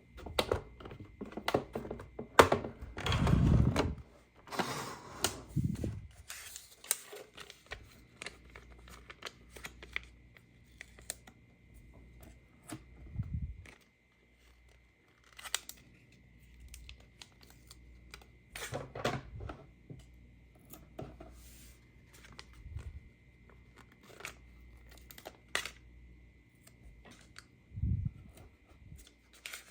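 Hands unboxing a toy playset: packaging torn and rustled for the first few seconds, then scattered clicks and light knocks of handled plastic pieces.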